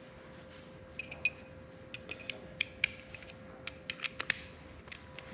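Hand tools working the table saw's 10 mm bolts: scattered, irregular sharp metallic clicks and clinks, with a faint steady hum underneath.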